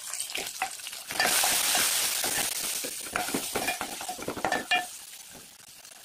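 Sliced onions, green chillies and garlic frying in hot oil while a steel ladle stirs them in a metal pot. A sizzle starts about a second in and fades near the end, with the ladle clinking against the pot several times.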